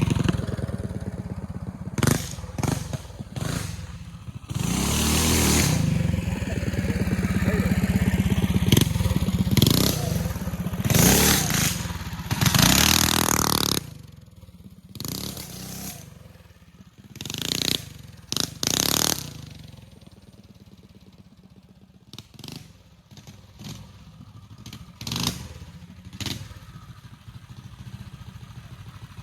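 Trailmaster mini bike engine revving hard as it is ridden, its pitch rising and falling through repeated throttle blips. About halfway through it drops to a fainter running sound with occasional short bursts of revving and some clattering.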